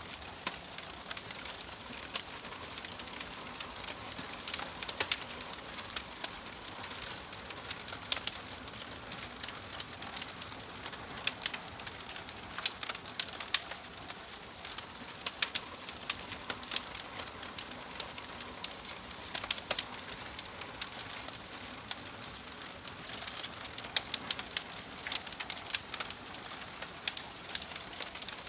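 Wood fire in a fireplace crackling, with frequent irregular sharp pops over a steady soft hiss.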